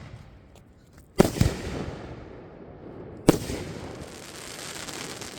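Display fireworks going off: a sharp bang with a quick second bang right after it about a second in, then another loud bang about two seconds later. Each bang is followed by a rumbling echo and crackle, and after the last one a long crackling shower carries on.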